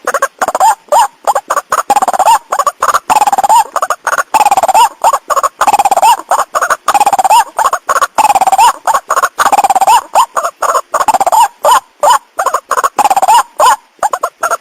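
White-breasted waterhen lure call: loud, rapid calls repeated several notes a second, some rising and falling in pitch, broken by brief pauses. This is the call played back to bring in male and female waterhens.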